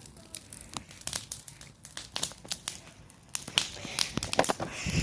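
Campfire crackling: irregular sharp pops and snaps, with a heavier low thump near the end.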